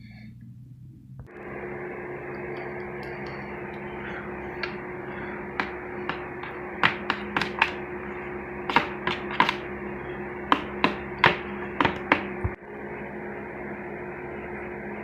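A steady electrical hum starts about a second in. Between about five and twelve seconds in, about fifteen sharp, irregular taps or clicks sound over it.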